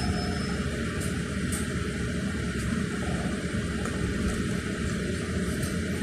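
Electric bus cabin noise while riding: a steady rumble of tyres on the road, with a few faint rattling clicks.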